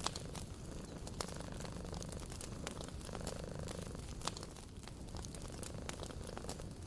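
Wood fire crackling: scattered sharp pops and snaps over a steady low background noise.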